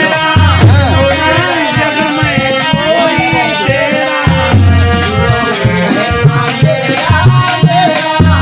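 Bhajan music: a voice singing gliding melodic lines over a sustained held drone, with low drum beats and steady rattling, shaker-like percussion.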